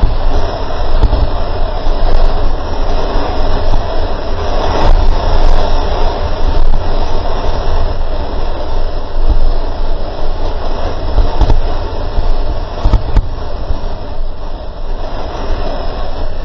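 Boat under way at sea: a loud, steady rumble with heavy low buffeting.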